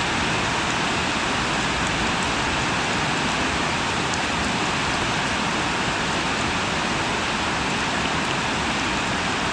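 Steady rain falling, an even, continuous hiss of dense drops.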